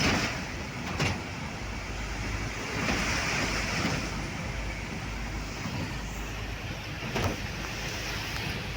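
Car on a highway in heavy rain, heard inside the cabin: a steady rush of tyre, engine and rain noise, with three sharp knocks, at the start, about a second in and near the end, and a swell of spray hiss around the middle.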